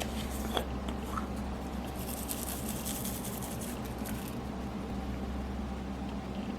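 Slime being kneaded and squeezed by hand as makeup is worked into it: soft squishing with fine crackling pops, densest from about two to four seconds in, plus a sharper pop about half a second in.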